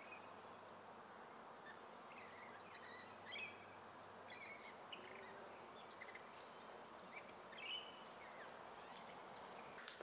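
Birds calling outdoors, a scattering of short chirps over faint steady background noise. Two louder calls come about three and a half seconds in and again near eight seconds.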